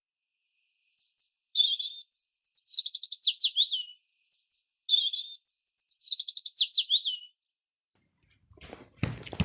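A small bird singing: quick high chirps and trills, the same phrase of about three seconds heard twice in a row.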